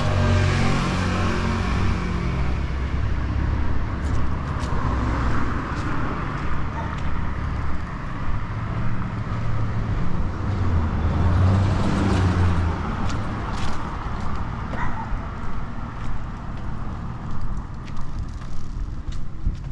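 Street traffic: cars driving past with engine rumble and tyre rush, one passing at the start and another about eleven seconds in.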